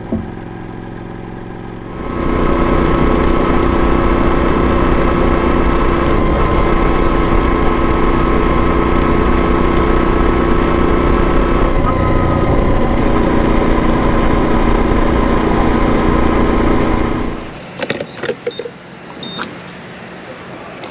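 Moto Guzzi V85 TT's V-twin engine running at a steady speed, then cut off suddenly about seventeen seconds in, followed by a few light clicks and knocks.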